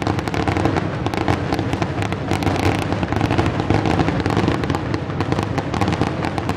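Fireworks finale: a rapid, unbroken barrage of aerial shell bangs and crackles, like a machine gun.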